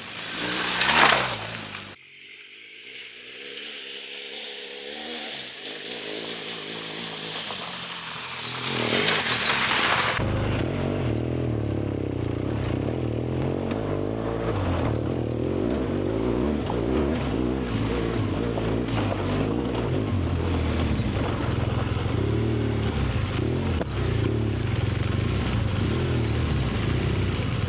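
BMW GS adventure motorcycle's boxer-twin engine running while riding. The clip is cut several times: a loud rushing surge about a second in stops abruptly, a quieter stretch follows with the engine note rising, then there is another loud burst, and from about ten seconds in the engine runs steadily under way.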